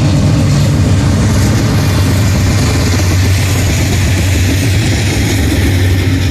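Diesel locomotives of a Norfolk Southern coal train running, a loud steady engine drone over a rumbling haze.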